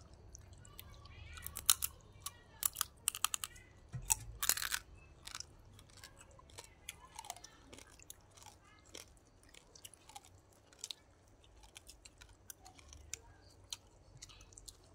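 Several people eating close to the microphone: chewing with crisp, crunchy bites into fresh vegetables and grilled chicken. The crunching is densest and loudest in the first few seconds, then thins to scattered single bites.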